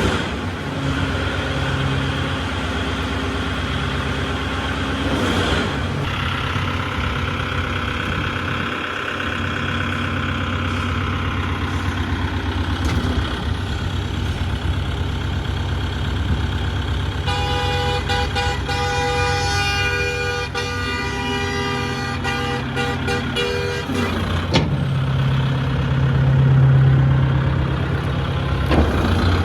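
Vehicle engine running steadily, with a horn sounding for about seven seconds past the middle, broken into short toots partway through.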